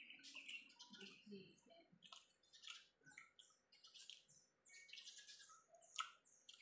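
Faint close-up mouth sounds of chewing a beef tortilla: many short wet clicks and smacks scattered irregularly.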